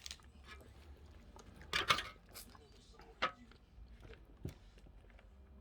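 Quiet eating sounds during a seafood meal: scattered light clicks and clatters from handling food and dishes, with a louder cluster of clicks about two seconds in and single sharper clicks near three and four and a half seconds.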